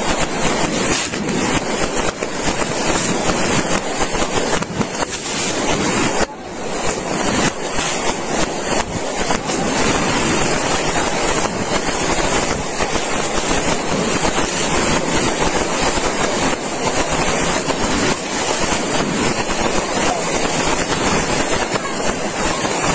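A long string of firecrackers going off in a loud, dense, continuous crackle of rapid bangs, with a brief break about six seconds in.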